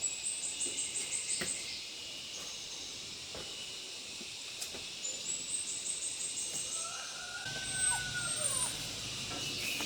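Rural outdoor ambience: a steady high hiss with two runs of rapid high-pitched chirps from birds or insects. Near the end an animal call glides in pitch.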